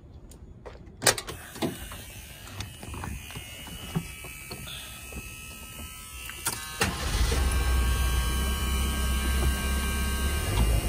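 A sharp clunk about a second in and some handling noises, then a 1978 Ford Mustang II's engine is cranked and catches about seven seconds in, settling into a steady cold-start high idle.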